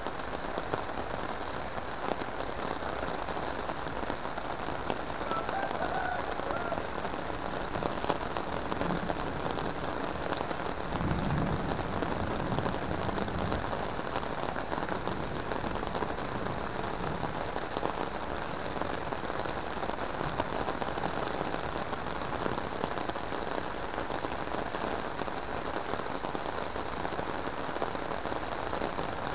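Heavy rain falling steadily on puddles, plants and corrugated metal roofs.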